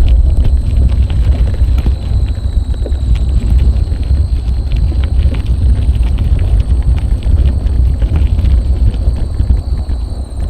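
Wind buffeting an action camera's microphone while cycling, a heavy low rumble, with many scattered clicks and rattles from the bike riding over an uneven path. A faint steady high whine runs underneath.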